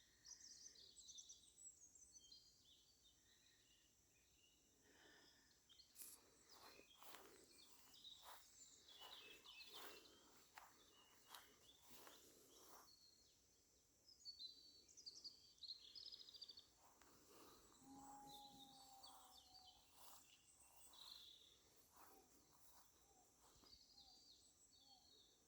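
Faint dusk birdsong: several small birds chirping and warbling high up, with a few soft clicks in the middle.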